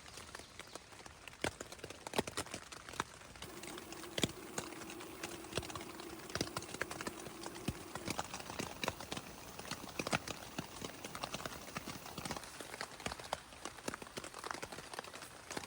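Footsteps on a rocky trail: irregular sharp clicks and knocks of boots on stone, several a second. A faint steady tone comes in a few seconds in and lasts about four seconds.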